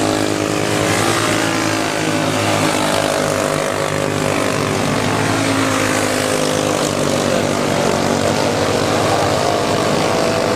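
Several racing go-kart engines running together at high revs on track, their overlapping pitches rising and falling as the karts accelerate and back off.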